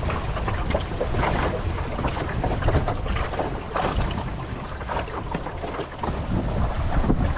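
Wind buffeting the microphone with a steady low rumble, over irregular splashing and gurgling of water along the hull of a small wooden sailboat under way.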